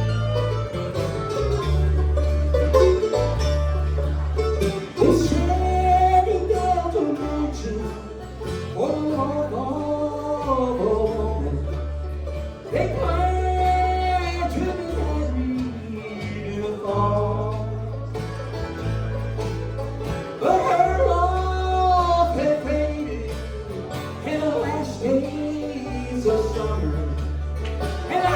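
Live bluegrass band playing, with banjo and guitar, a steady bass line underneath and a melody carried in recurring phrases.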